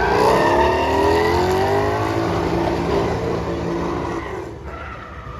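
A drift car's engine revving hard, its pitch climbing over the first couple of seconds, then holding and fading away near the end as the car moves off.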